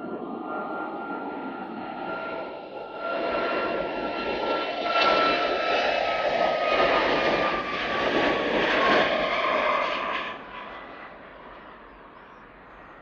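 Airliner engines passing close by, a steady whine slowly falling in pitch over the engine noise. It builds to its loudest from about five seconds in, then cuts off suddenly near ten seconds, leaving a fading rumble.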